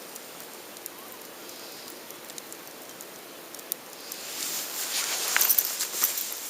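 Campfire burning with a soft hiss and scattered sharp crackles and pops; from about four seconds in it grows louder, with a rush of hissing and a dense run of crackles.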